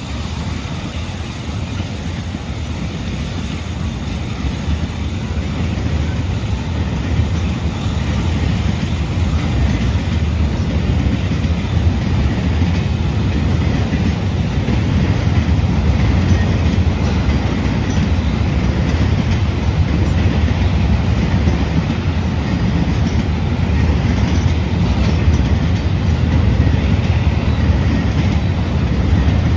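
A CSX rail train rolling past with a steady low rumble and wheel clatter, growing gradually louder over the first half and then holding.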